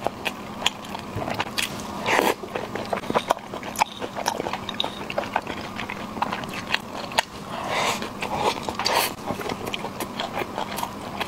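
Close-miked wet chewing and biting of saucy stuffed green peppers with pork and fried eggplant sandwiches, with rice. Many small mouth clicks and smacks, with a few louder bites about two seconds in and again near eight to nine seconds.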